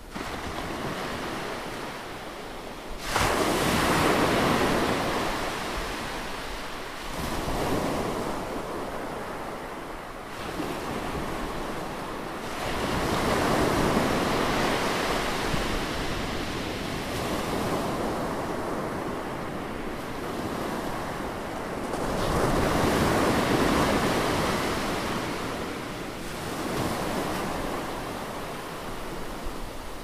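Ocean waves breaking and washing, a rushing surf sound that swells and fades every few seconds. It rises suddenly about three seconds in, and has another strong surge near the middle and a third later on.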